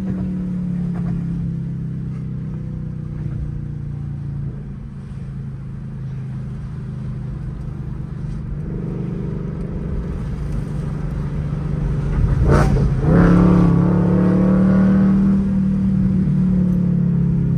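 2023 Ford Mustang Mach 1's 5.0-litre V8 heard from inside the cabin while driving, running steadily at low revs. About two-thirds of the way through the revs rise sharply, and the engine runs louder after that.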